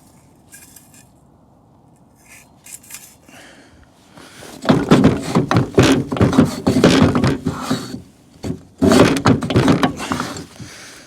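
Metal knocking and scraping on a frozen trailer hitch ball mount as it is worked, in two loud runs of rapid strokes: the first starts about four and a half seconds in, and the second follows a short pause near eight seconds.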